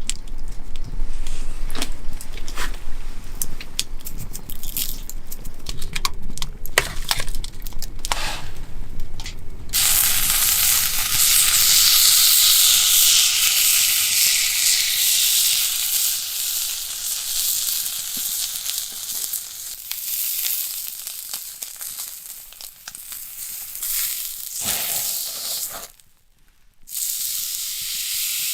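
Clinks and knocks of cooking utensils, then from about ten seconds in, Hida beef sizzling loudly as it cooks over a campfire. The sizzle cuts out briefly near the end and comes back.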